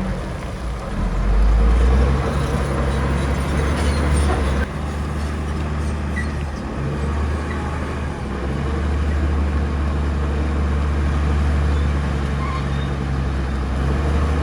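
Heavy diesel engine of construction machinery running steadily with a deep hum, changing abruptly about four and a half seconds in.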